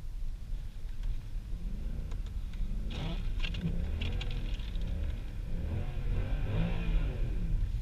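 Tuned Mercedes C63 AMG V8 engine running with a low rumble, its revs rising and falling several times through the middle of the stretch.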